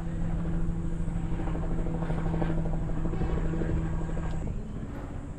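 An engine running with a steady low hum over a rough rumble; the hum stops about four and a half seconds in.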